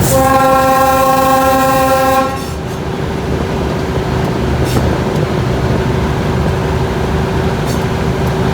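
Diesel locomotive air horn sounding one long blast of about two seconds, over the steady running of the locomotive. After the blast the running carries on alone, with a constant hum.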